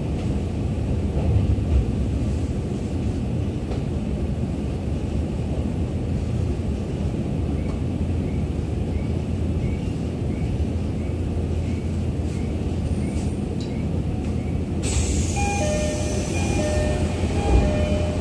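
Cabin running noise of a Tokyo Metro 17000 series electric train: a steady low rumble of wheels on the track. About fifteen seconds in, a high falling whine and a few short high tones come in as the train pulls into a station.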